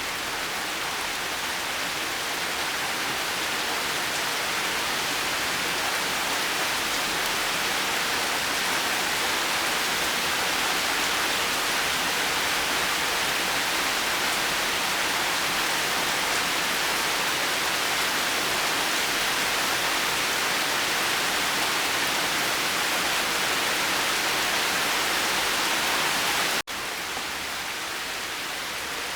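Steady, dense rain falling as an even hiss. Near the end it cuts out for an instant and comes back slightly quieter, a splice in the recording.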